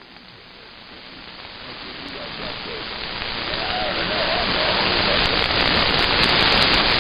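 CB radio static: an even hiss that swells steadily louder, with faint garbled voices buried in it about halfway through.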